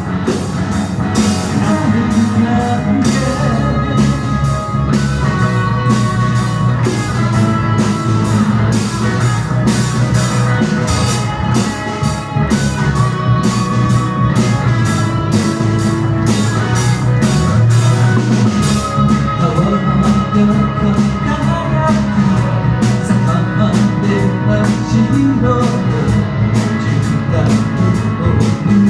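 Live rock band playing a song: drum kit keeping a steady beat under guitar, with a singing voice.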